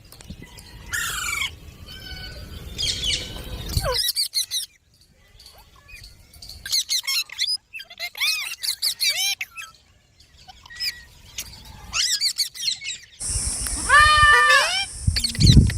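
Green parrots squawking: runs of short, sharp, high calls, several in quick succession, with brief pauses between the runs. Near the end a steady hiss and some low thumps come in under the calls.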